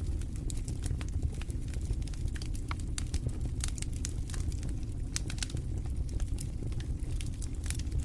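Wood fire burning in a fireplace: a steady low rumble of flames with irregular sharp crackles and pops of burning logs, clustering briefly around the middle.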